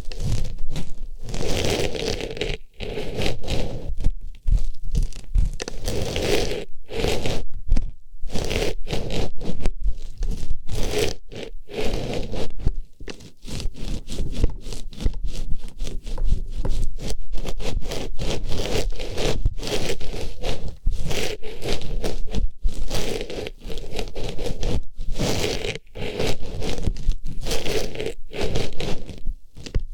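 Artificial flower pushed into and rubbed around the ear of an ASMR microphone: close, irregular rustling and scraping strokes with brief pauses between them.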